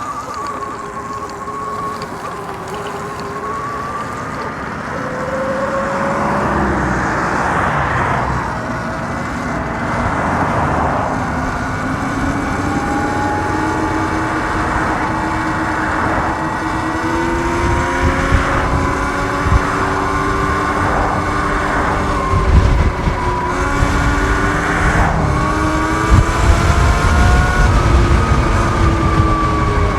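Sur-Ron Light Bee electric dirt bike riding along, its motor and drive giving a whine of several pitches that slide up and down together with speed and climb as it picks up pace. Rushing noise comes in patches, and low wind buffeting on the microphone grows stronger in the second half.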